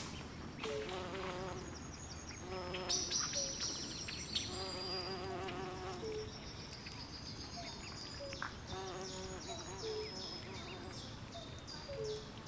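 Night swamp chorus: insects calling in short high-pitched pulses that speed up toward the end, over repeated lower warbling trills and short rising chirps from frogs, with a faint steady hiss behind.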